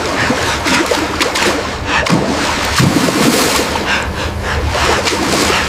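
Loud, continuous rushing and splashing water, the churning of floodwater in a storm.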